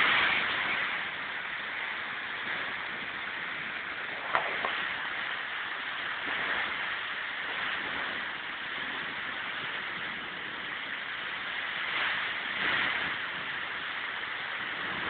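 Steady hiss of heavy rain during a thunderstorm, with one brief sharp click about four seconds in.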